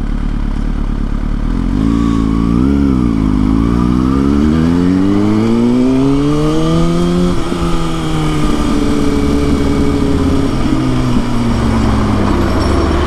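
Kawasaki ZX-6R's inline-four engine under way: a short rise and fall in revs about two seconds in, then revs climbing steadily through a gear until they drop sharply at a shift about seven seconds in, after which the pitch eases slowly downward. Wind and road noise run underneath.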